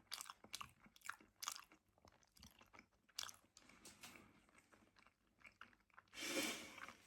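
Faint, close chewing of a mouthful of sushi roll: scattered small wet clicks and crunches of mastication. About six seconds in comes a short breathy rush, louder than the chewing.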